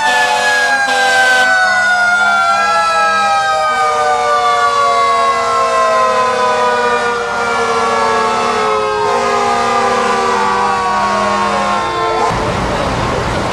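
Fire truck sirens sounding together: one long siren tone slowly falls in pitch as it winds down, while other sirens wail up and down beneath it; they stop about 12 seconds in.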